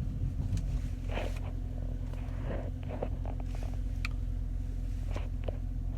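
A steady low hum with a few faint scrapes and clicks scattered through it.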